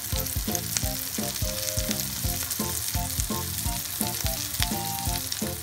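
Minced pork-and-beef burger patties sizzling in hot oil in a non-stick frying pan, a steady crackling hiss. Background music with a steady beat plays along.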